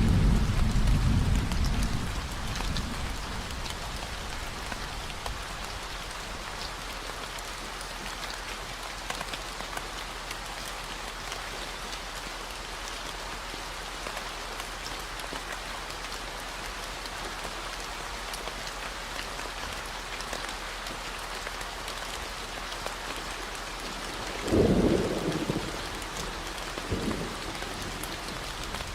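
Steady rain falling, with thunder rumbling and fading over the first couple of seconds and a louder rumble of thunder about 25 seconds in. Underneath runs a constant low 40 Hz hum, the added gamma-wave tone.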